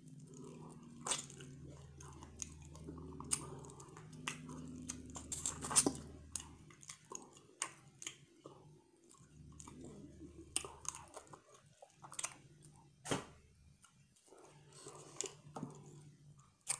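Close-up chewing and biting of boiled blue crab, with wet mouth sounds and irregular sharp crunches and crackles as the meat is picked from the shell. Two of the cracks are louder, about six and thirteen seconds in.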